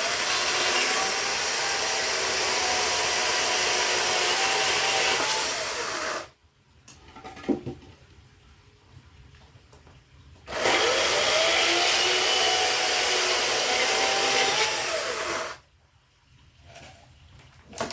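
Power saw cutting firewood in two runs of about six and five seconds. It starts and stops abruptly, with a wavering motor tone under the cutting noise. In the pause between runs there is a single knock.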